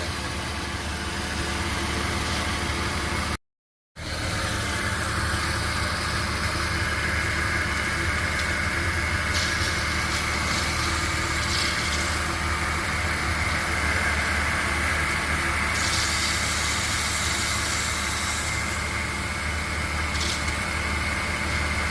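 Porsche Boxster 2.7 flat-six engine idling steadily, with a steady high-pitched whine from the serpentine belt area, which the owner suspects is the power steering pump or the AC compressor. The sound drops out briefly about three and a half seconds in.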